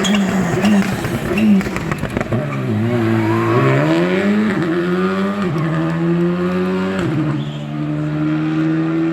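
A rally car's engine at full attack on a stage: revs dip and climb again through a corner, hold high, then fall sharply about seven seconds in as the driver shifts gear. Sharp cracks and pops sound in the first couple of seconds.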